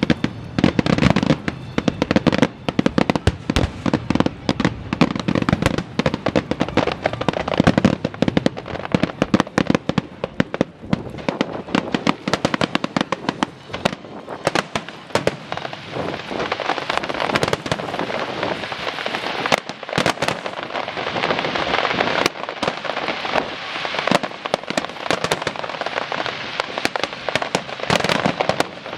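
Continuous dense cracking and popping, many sharp cracks a second, with a hiss that builds up in the second half.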